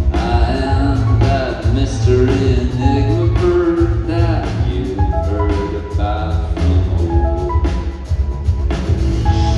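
Rock band playing a song live, a voice singing over drums and a heavy, booming low end.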